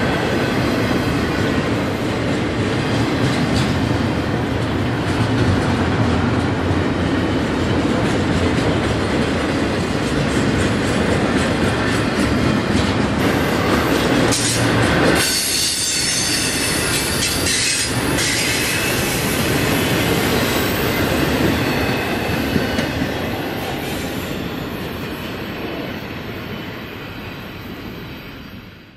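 Double-stack intermodal freight cars rolling past on steel wheels, pounding over the railroad diamond with some wheel squeal. The sound fades over the last few seconds as the end of the train goes by.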